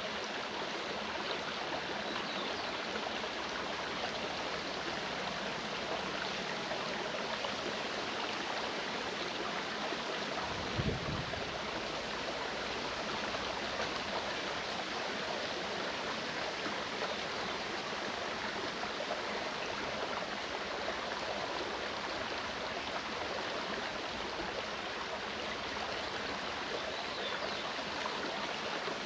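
Clear mountain stream running over rocks, a steady even rush of water. A brief low thump about eleven seconds in.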